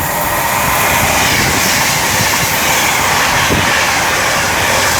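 Avanti West Coast Class 390 Pendolino electric train passing through the station at speed, with a steady loud rush of wheels on rail and air and light clickety-clack underneath.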